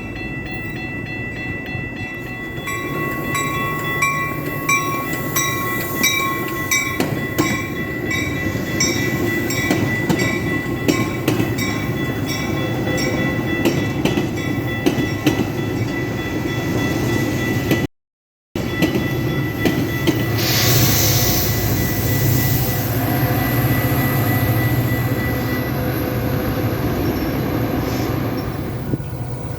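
A passing train rumbling on the rails, with a steady high wheel tone and evenly spaced clicks of the wheels over the rail joints. The sound drops out for an instant a little past halfway, and then comes back with a broader rushing noise.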